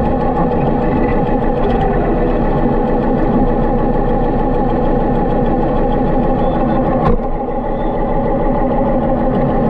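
Harley-Davidson V-twin motorcycle engine running steadily, with a brief click about seven seconds in.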